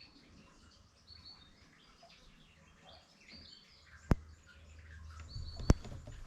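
Small birds chirping in short high calls, with two sharp clicks about four and six seconds in and a low rumble near the end.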